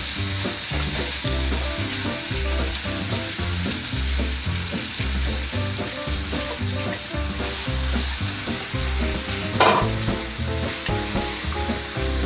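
Raw chicken pieces sizzling in hot oil in a wok as they are tipped in and stirred with a wooden spatula: a steady frying hiss, with one brief louder sound about three-quarters of the way through.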